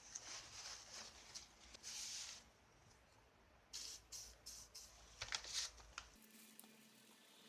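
Faint short scratching strokes in irregular runs, then a cut to quiet room tone about six seconds in.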